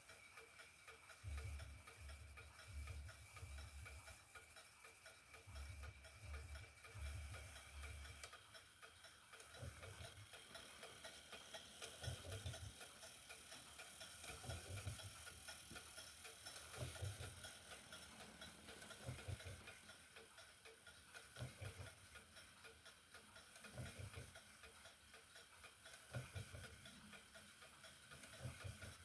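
HAC-Junghans wall clock movement ticking steadily, running after repair, with occasional faint low thuds.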